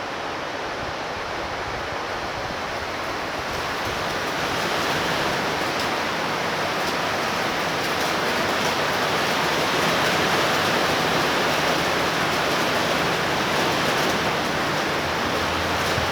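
Heavy rain pouring down in a steady rushing downpour that grows louder about four seconds in.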